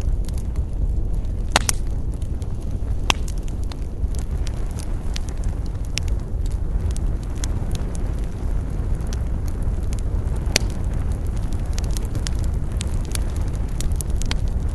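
Wood campfire burning with constant irregular crackling and a few sharper pops, about one and a half, three and ten and a half seconds in, over a steady low rumble.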